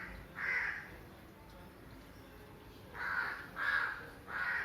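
A crow cawing: one caw about half a second in, then three more in quick succession near the end.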